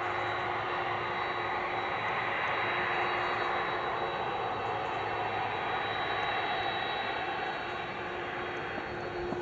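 Jet airliner engines running, a steady rushing noise with a thin high whine, easing off slightly near the end.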